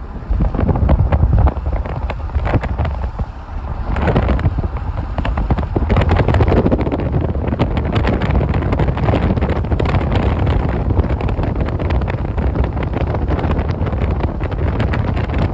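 Wind buffeting the microphone over a steady low rumble of a moving vehicle.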